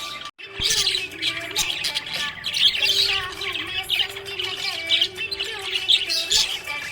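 Budgerigars chirping and warbling in a dense, continuous chatter of short high calls, with a brief break in the sound about a third of a second in.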